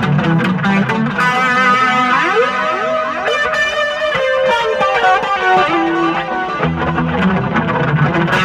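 Mexican-made Fender Stratocaster on its bridge pickup, played through an amp with drive and delay: picked single-note phrases, with several notes sliding up in pitch around the middle.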